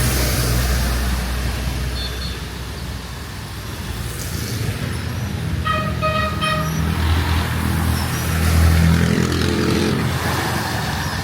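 Street traffic: vehicle engines running, with one vehicle growing louder as it passes. About six seconds in, a vehicle horn is honked in several quick short toots.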